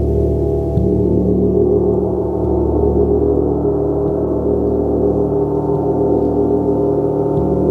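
A gong played continuously: a dense wash of overlapping ringing tones held at a steady level, with soft strikes now and then renewing the low tones.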